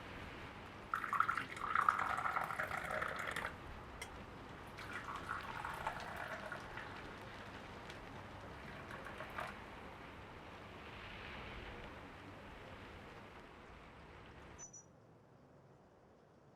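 Water pouring in short spells, the longest and loudest about a second in, then quieter pours, before the sound cuts off suddenly near the end.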